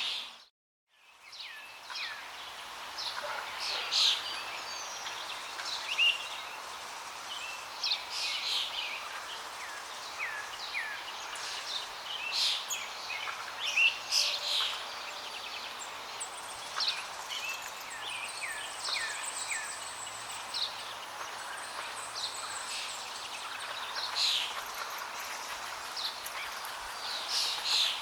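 Many birds chirping and calling in short, quick notes over a steady rush of flowing water. The whole sound cuts out for a moment right at the start and then fades back in.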